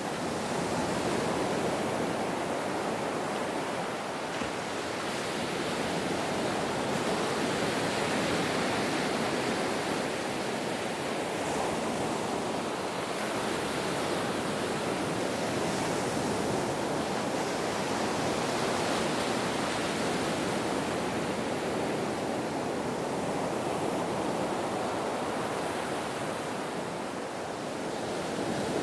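Ocean waves washing in: a continuous rush of surf that swells and eases slowly in loudness.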